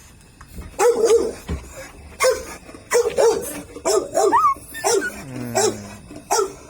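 Pomeranian barking, a string of about ten short, high barks at an uneven pace.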